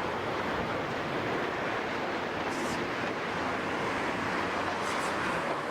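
Hydraulic excavator working on a demolition site, heard as a steady, even rumble and hiss, with a couple of brief higher hissing sounds about halfway through and near the end.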